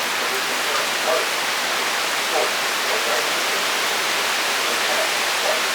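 Torrential thunderstorm rain pouring down in a steady, even hiss.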